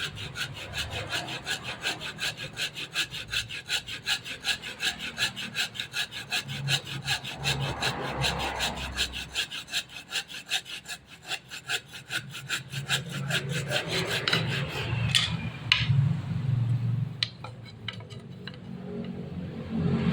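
Hand saw cutting through wood in quick, regular strokes, about four a second. The strokes stop about two-thirds of the way through and a few sharp knocks follow.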